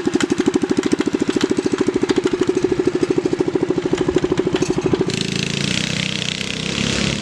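Predator 212cc single-cylinder four-stroke engine idling with a fast, even pulse. About five seconds in the throttle opens and the engine picks up to a smoother, faster run with added hiss.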